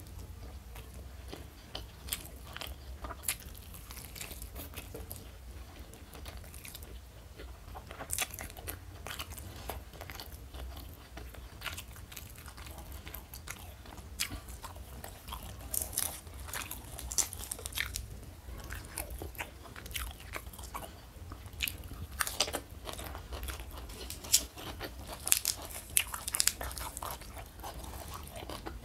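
A person chewing and biting crunchy fried food close to the microphone: irregular crisp crunches, coming thicker and louder in the second half.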